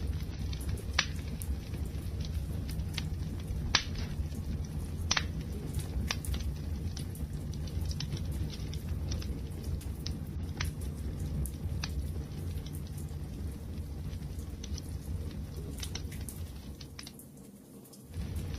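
Wood fire burning with a steady low rumble of flames and scattered sharp crackles and pops from the burning wood. The sound drops away briefly near the end, then comes back.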